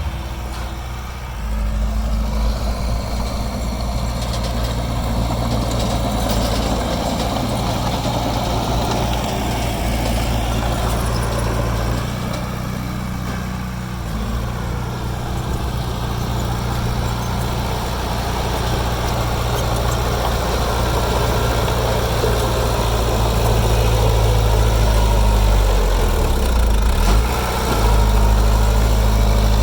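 Diesel engine of heavy earthmoving machinery running steadily, with a brief dip and change in the engine note about 26 seconds in.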